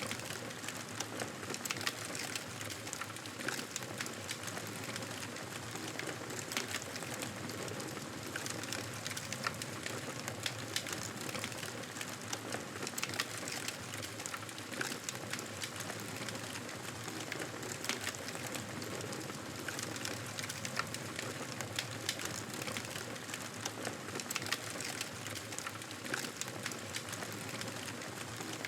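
Wood fire crackling in a fireplace: a steady hiss with frequent small, sharp pops and snaps.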